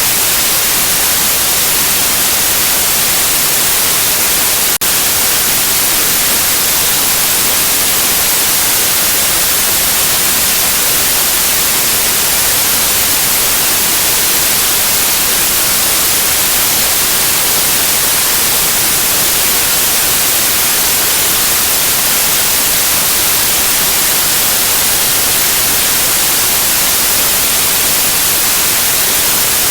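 Steady, loud white noise, an even hiss with no pitch or rhythm, played as a sleep and colic-calming sound for a baby. One brief click about five seconds in.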